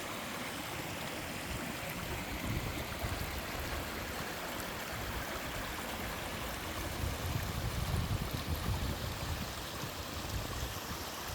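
Mountain stream water rushing steadily down a small two-tier sliding waterfall over rock. A low rumble in the flow swells for a couple of seconds about seven seconds in.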